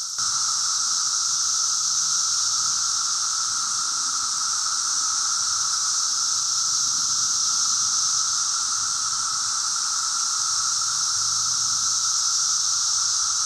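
Dense chorus of Brood X periodical cicadas: a loud, unbroken high shrill with a steady lower buzzing tone beneath it.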